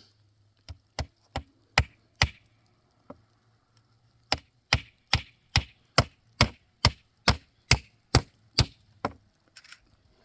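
Repeated blows of a tool striking wood: a few uneven strokes, a short pause, then a steady run of about a dozen hard blows at roughly two and a half a second.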